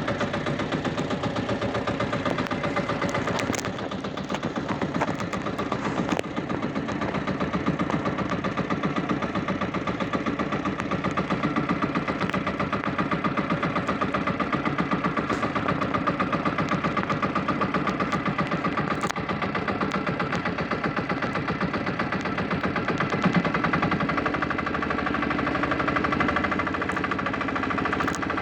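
Fishing boat engine running steadily with a rapid, even chugging beat.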